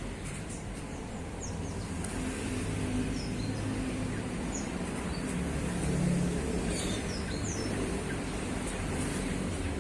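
Male orange-headed thrush giving scattered short, high chirps over a steady low rumble.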